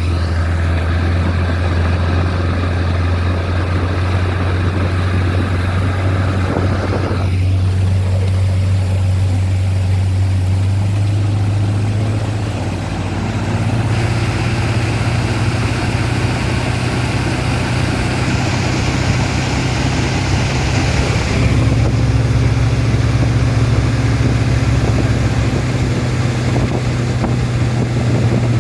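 1959 Johnson Super Sea-Horse 35 hp two-cylinder two-stroke outboard motor running steadily. Its pitch steps up a little about halfway through and shifts again a few seconds later.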